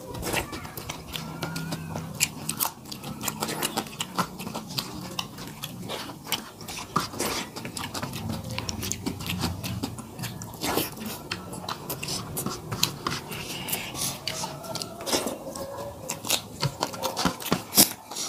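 Two people eating rice and curry by hand: chewing and wet mouth sounds, with a dense, irregular run of clicks and smacks.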